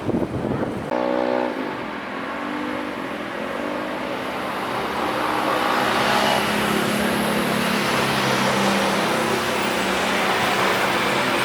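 Jet airliner departing: engine noise that swells steadily louder, with a falling pitched whine in the first few seconds.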